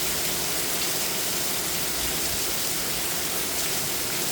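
Heavy downpour: steady, dense rain on hard surfaces, with water gushing off the roof edge.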